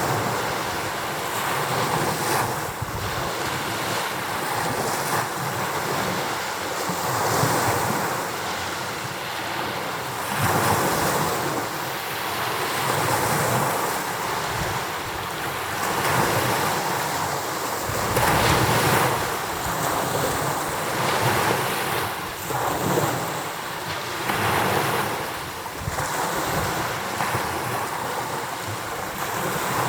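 Rough-sea waves breaking against the shore in a strong wind, with the wind buffeting the microphone. The surf rises and falls in surges every few seconds under a continuous rush.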